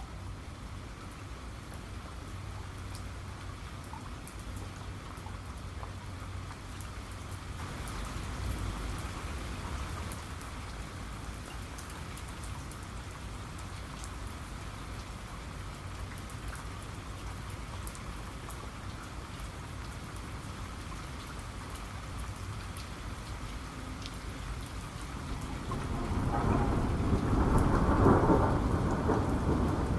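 Steady rain falling, with a low rumble of thunder underneath. About four seconds from the end, a louder peal of thunder builds and rumbles on.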